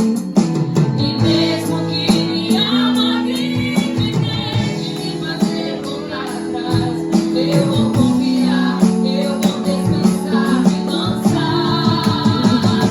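Live worship band playing: keyboard, electric guitar and drum kit, with a woman singing over them.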